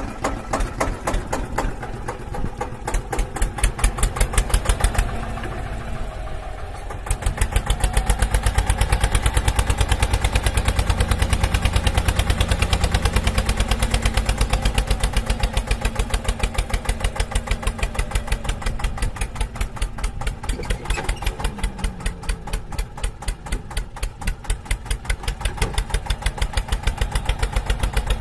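An engine running at idle with a steady knocking beat, about three beats a second. The sound drops back for a couple of seconds about five seconds in, then comes back stronger.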